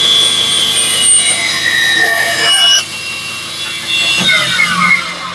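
Bandsaw cutting through wood, its whine sliding in pitch as the blade is loaded. About three seconds in the loud cutting drops away, leaving the saw running more quietly with a low hum.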